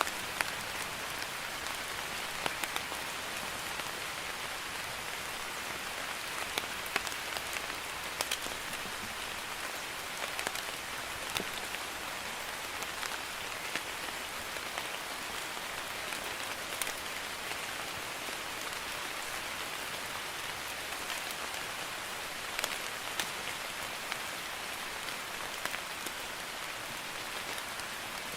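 Light rain (drizzle) falling on a surface: a steady patter with scattered sharper drop ticks.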